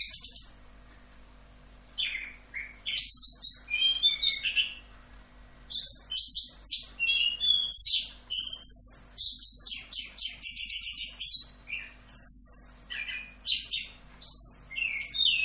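Chestnut-capped thrush (anis kembang) singing a long, varied song of quick whistled phrases, slurs and rapid trills. After a pause of about two seconds near the start, it sings almost without a break.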